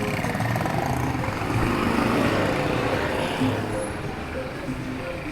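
Town street traffic: a passing vehicle's engine and tyre noise swell about two seconds in and then fade, with music playing in the background.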